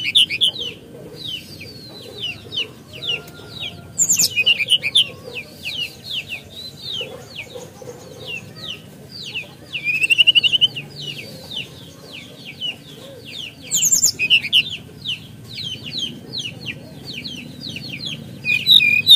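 An SRDC songbird (sikatan rimba dada coklat) chattering: a rapid, unbroken string of short down-slurred chirps, with louder, busier bursts about four seconds in, around ten seconds, around fourteen and near the end.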